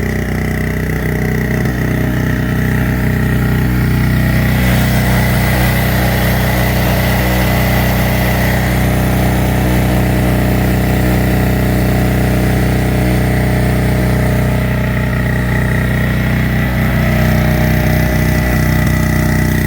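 Small two-stroke portable generator running steadily just after starting, with a steady high whine over its engine note.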